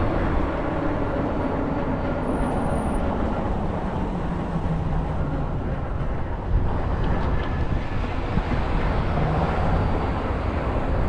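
Steady ride noise inside a moving Muni transit vehicle: a continuous low rumble of the running gear and road or track, with a faint motor tone drifting in pitch and a small knock about six and a half seconds in.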